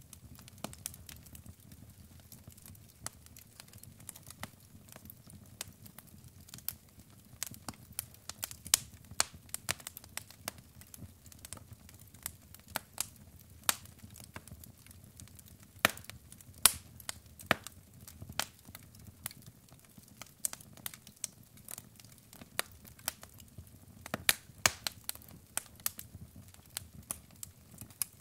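Wood fire crackling in a fireplace: irregular sharp pops and snaps from the burning logs, some much louder than others, over a low steady rumble.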